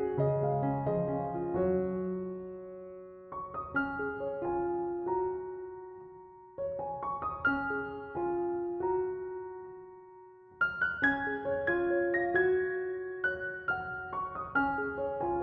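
Background piano music: slow, gentle phrases of single notes and chords, each struck note fading away, with new phrases starting about three seconds in, again around six and a half seconds, and again about ten and a half seconds in.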